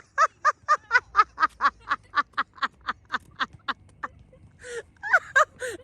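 A person laughing hard in a long run of short high-pitched 'ha' beats, about four a second, fading out after about four seconds, then a few more laughing bursts near the end.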